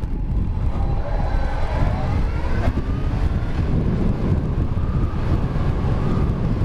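Yamaha FZ1 inline-four motorcycle engine running under way, its pitch drifting up and down with the throttle, mixed with wind rushing over the helmet-mounted microphone.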